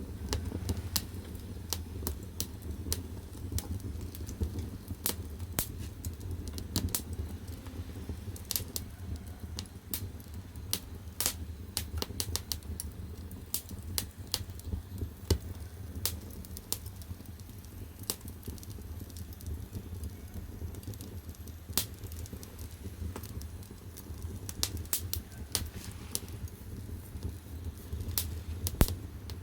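Firewood burning in the firebox of a wood-fired bath heater, crackling with many irregular sharp pops over a steady low rumble of the fire.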